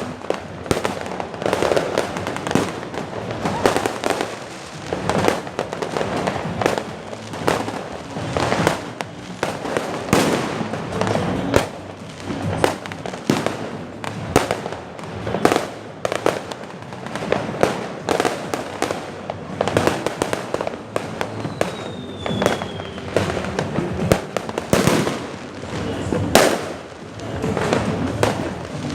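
Fireworks going off without a break: a dense run of bangs and crackling pops. There is a short falling whistle about two-thirds of the way through and a sharp, loud bang near the end.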